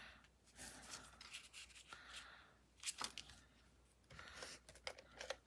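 Faint rustling and sliding of cardstock being handled and positioned, with a few light taps.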